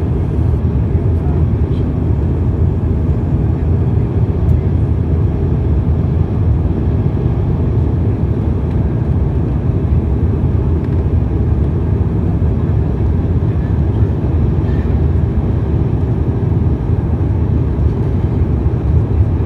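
Airliner cabin noise after takeoff: a steady, loud low rumble of the engines and airflow heard from inside the passenger cabin.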